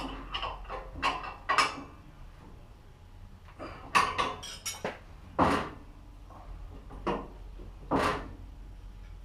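Metal tools and parts clanking and clinking in irregular bursts: about a dozen sharp hits with a short ring, the loudest near one and a half, four and five and a half seconds in.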